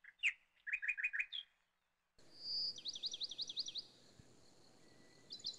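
Small birds chirping: a few short high chirps in the first second and a half, then after about two seconds a whistled note running into a quick trill of falling notes, and another fast trill of repeated notes near the end.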